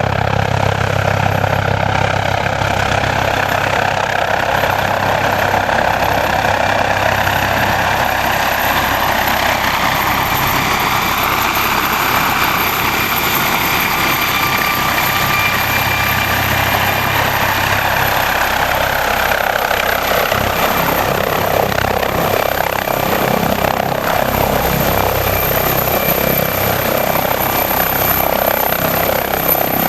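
MD 900 Explorer police helicopter running loudly and steadily, with a thin high whine over it; the low drone weakens about two-thirds of the way through.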